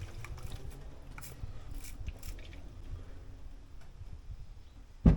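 Rag wiping spilled oil off a dirt bike rear shock: soft rubbing, scraping and handling noises, with one sharp knock about five seconds in.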